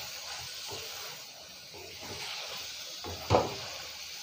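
Chicken masala sizzling in a metal karahi while a wooden spatula stirs and scrapes through it, with a louder knock a little past three seconds in.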